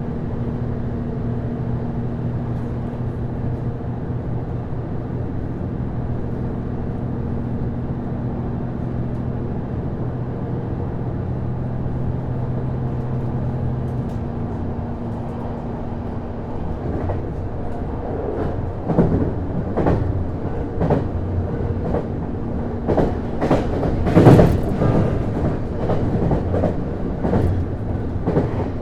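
Interior running sound of a JR East Series HB-E210 hybrid diesel-electric railcar under way: a steady low drone from the drive, whose lowest tone drops out about halfway through. From a little past halfway the wheels click and clack over rail joints, with one louder clack late on.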